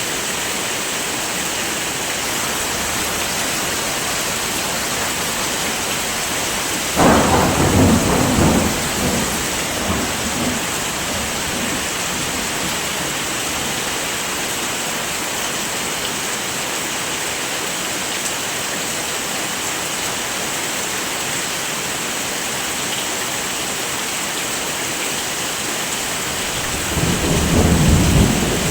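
Steady heavy rain with thunder. A sudden rumble of thunder breaks in about seven seconds in and dies away over a few seconds, and another rumble builds near the end.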